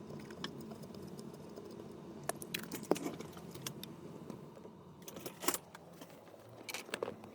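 Light clicks and short metallic clinks of small tools and parts being handled, with a few sharper clicks scattered throughout.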